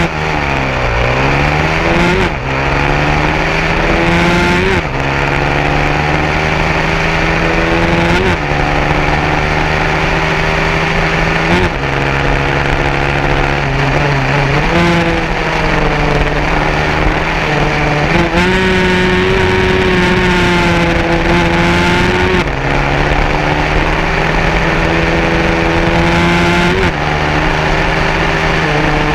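150cc racing motorcycle engine running hard. Its pitch drops sharply and climbs again every three to four seconds as it shifts and works through the corners.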